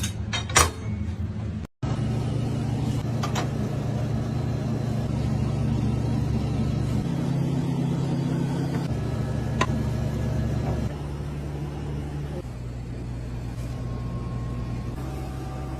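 Steady low hum of running machinery, with a few sharp clicks; the hum changes pitch and loudness abruptly several times and cuts out briefly about two seconds in.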